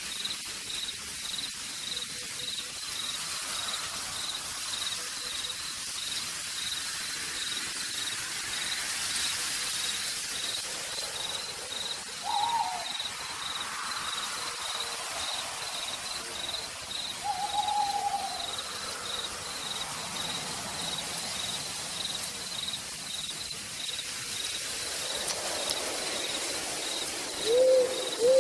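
Steady rain falling in a forest at night, with an insect chirping in a high, even pulse about twice a second. An owl hoots a few times: once about twelve seconds in, a longer call around eighteen seconds, and two louder hoots close together near the end.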